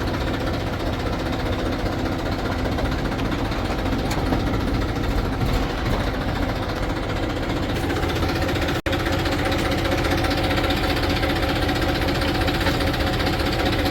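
Heavy diesel engine of earthmoving machinery running steadily, close by, with a rapid knocking beat. The sound breaks off for an instant about nine seconds in.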